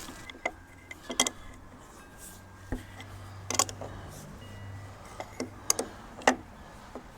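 Irregular sharp clicks and knocks of hand work on a backhoe's metal parts, about half a dozen spread over several seconds.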